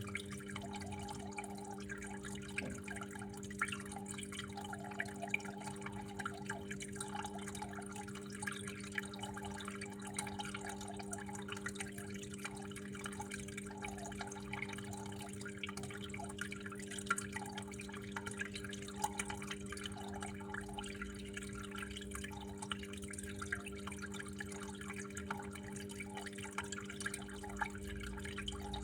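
Water flowing and dripping steadily, a dense irregular patter of drops, over a steady low hum.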